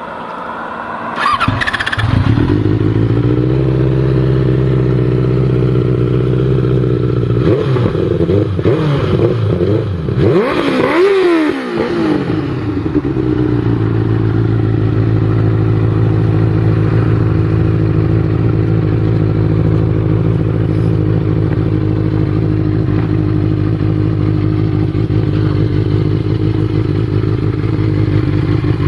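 Benelli 600 inline-four motorcycle engine and exhaust: it comes up to speed about a second and a half in and settles into a steady idle. Between about 7 and 13 seconds it is revved several times, the pitch rising and falling with each blip, before it drops back to a steady idle.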